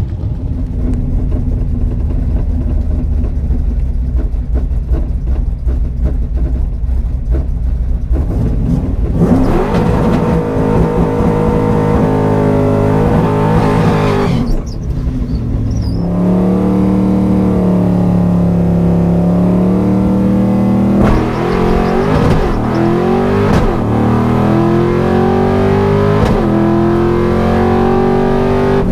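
Ford 5.0 V8 of a 1991 Mustang LX drag car running at a steady rumble, then revving and accelerating hard about nine seconds in, the pitch climbing and dropping back several times as it shifts gears.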